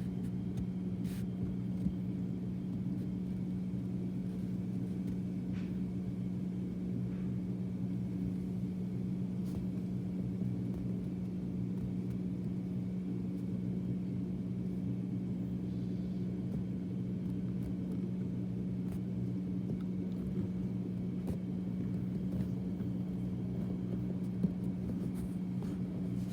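Water heater running: a steady low hum with a few faint ticks.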